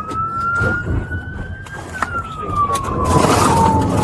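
Police car siren wailing, its pitch slowly rising and then falling, over a low vehicle rumble, with a brief rush of noise about three seconds in.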